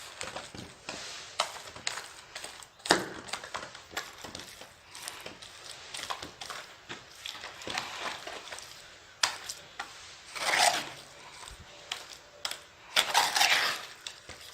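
Tile mason's hand work: a run of short knocks and clicks of tools on tile and mortar, with two longer scraping sounds about ten and thirteen seconds in.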